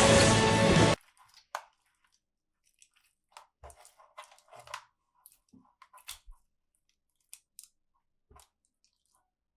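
Loud music cuts off abruptly about a second in. Faint, scattered clicks, taps and crinkles follow, the small sounds of handling toys and their packaging.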